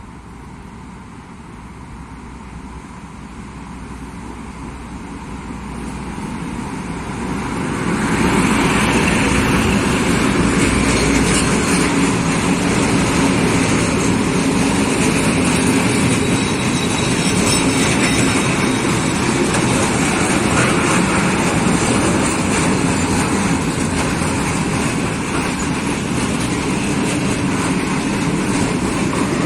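A train approaching and then passing close by: its noise builds steadily for about eight seconds, then the running of wheels on the rails stays loud and even.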